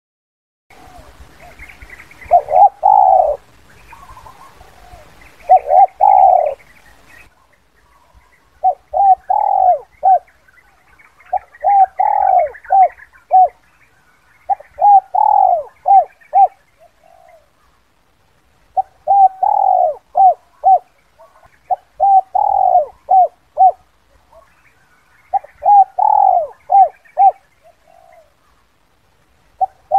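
Spotted dove (Spilopelia chinensis) cooing: repeated phrases of a few short notes around one longer drawn note, one about every three seconds. This is the 'kuk 2' call type used as a lure call for trapping wild doves.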